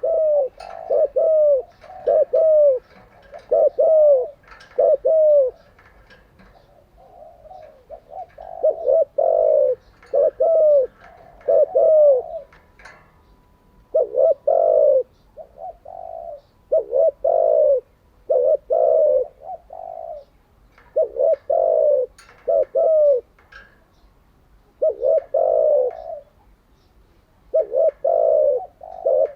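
Spotted dove cooing over and over, low hooting notes strung into phrases of a few coos, each phrase followed by a short pause.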